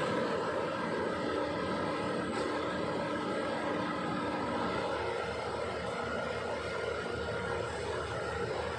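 Diesel engine of a Kobelco SK200 excavator running steadily as the machine is driven up onto a low-bed trailer.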